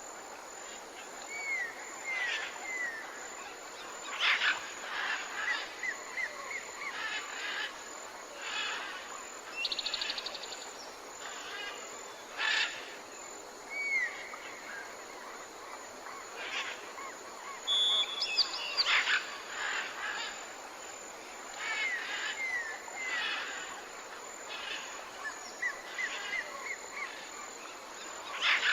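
Several birds calling: short repeated chirps and curving whistled notes, with a couple of rapid trills, over a steady background hiss.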